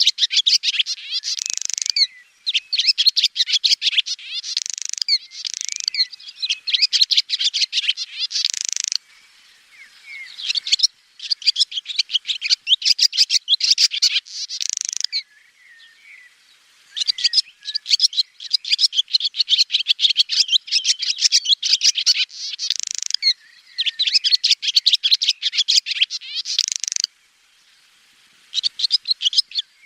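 Swallow twittering: rapid runs of high chirps and trills in phrases a few seconds long, broken by short pauses about a third of the way in, halfway through and near the end.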